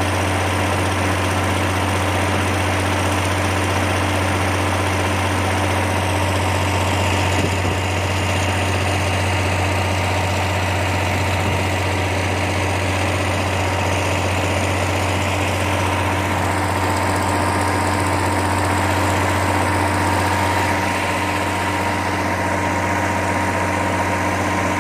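A steady low mechanical hum, unchanging throughout, with a few steady higher tones above it.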